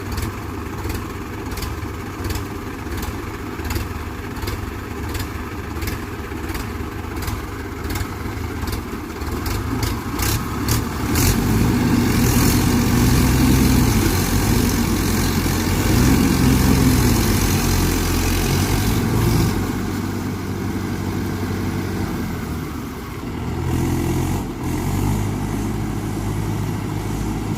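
Swaraj tractor's diesel engine straining under load while pulling a tractor stuck in mud. About eleven seconds in it is revved up hard and held there for several seconds, its pitch rising and falling, then it drops back to a steadier run. A regular ticking, under two a second, runs through the first part.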